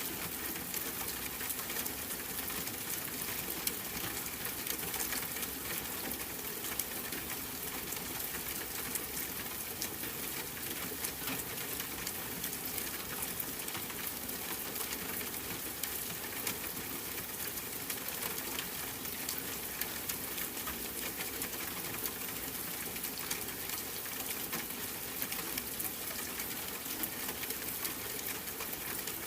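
Steady white-noise bed like falling rain or running water, an even hiss with a fine crackle through it and no swells.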